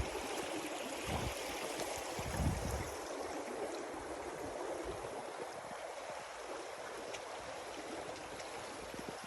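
Steady rush of flowing stream water, with two dull low thumps in the first three seconds.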